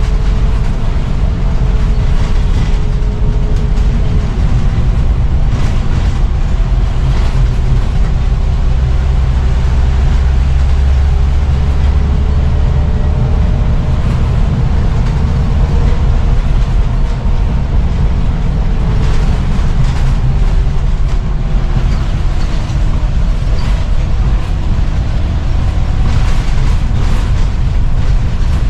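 Scania CN94UB (Omnicity) single-deck bus's diesel engine and driveline running under way, with a heavy low rumble and a whine that rises and falls as the bus speeds up and slows. The engine is running healthily.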